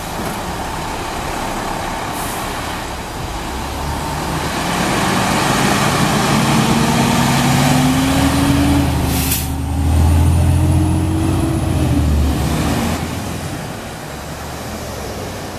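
Diesel engine of a Spartan fire truck pulling away and accelerating, its pitch rising steadily for several seconds. About nine seconds in comes a short, sharp hiss of air, and the engine eases off near the end.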